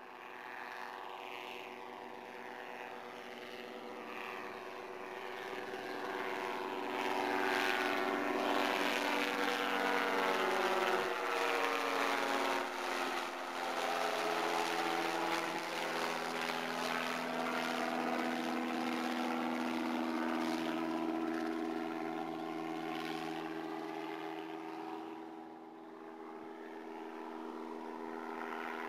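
Robinson R22 helicopter with its Lycoming O-320 engine flying past. The engine and rotor note grows louder, drops in pitch about twelve seconds in as it passes, then carries on steadily and eases off near the end.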